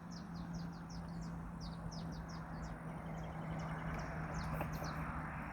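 Small birds chirping in a quick series of short, high notes that fall in pitch, a few a second, over a steady low hum.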